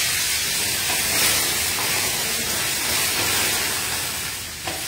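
Capsicum and onion, sprinkled with water, sizzling in very hot oil in a frying pan: a loud steady hiss as the water flashes to steam. This is the high-heat stage of the toss that makes the pan flare up.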